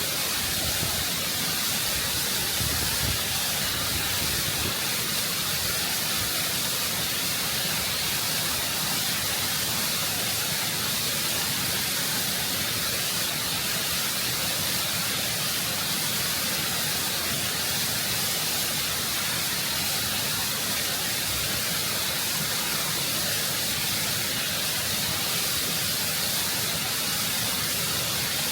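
Waterfall water rushing and cascading over rock, close up: a steady, full hiss of falling water and spray without a break.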